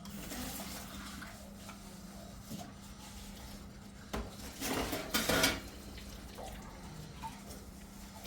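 Dishes and cutlery clattering and clinking, with a louder burst of clatter about four to five and a half seconds in, over a steady low hum.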